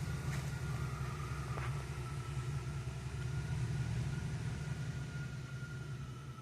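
1983 Buick Park Avenue engine idling steadily while warming up from a cold start. There are a few light clicks in the first two seconds.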